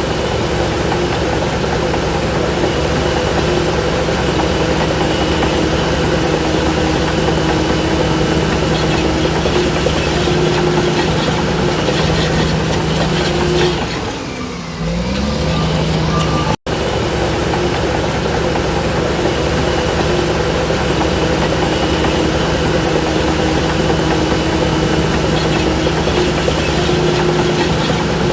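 Diesel engine of heavy earthmoving machinery running steadily. About halfway through the sound dips briefly as the engine note rises, and a moment later it cuts out for an instant.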